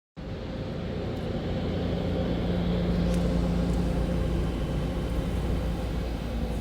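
Steady low rumble of a car, with a steady hum over it.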